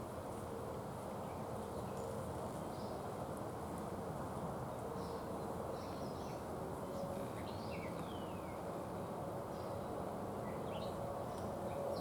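Outdoor ambience: a steady low rushing background noise, with faint short bird chirps and whistles scattered through the middle and toward the end.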